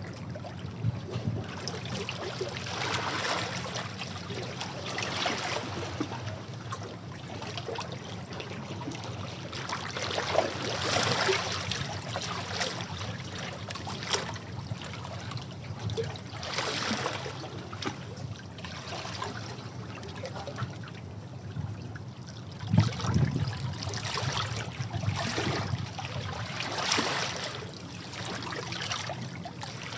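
Sea waves breaking and washing over rocks, a fresh surge of surf every few seconds.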